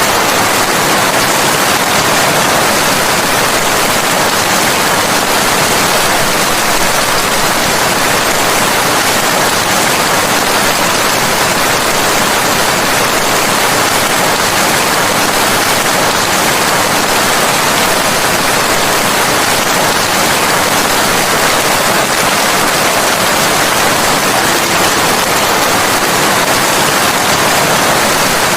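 Steady rain, an even, unbroken hiss with no separate drops, thunder or changes.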